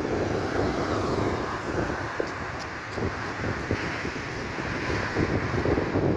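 Wind buffeting the microphone over a steady rush of rough sea.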